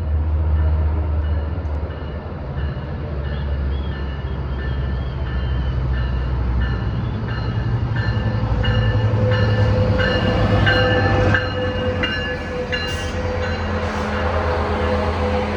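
A train running by with a steady low rumble. Over it, a high ringing tone repeats roughly every two-thirds of a second and grows louder toward the middle.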